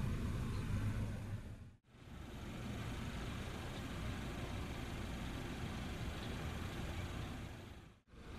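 A vehicle engine idling with a steady low hum, giving way after a brief dropout a little under two seconds in to a steadier, hissier rumble of outdoor background noise; the sound drops out again near the end.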